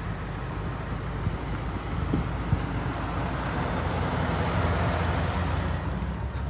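A motor vehicle's engine idling with a steady low hum, and a rushing noise that swells and fades about four to five seconds in.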